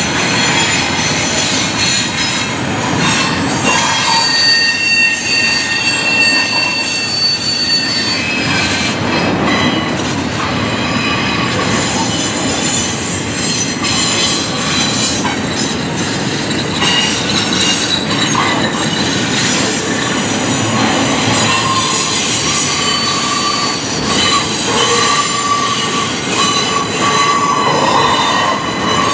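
Intermodal freight train cars rolling past: steel wheels rumbling and clattering on the rails, with high wheel squeals that come and go.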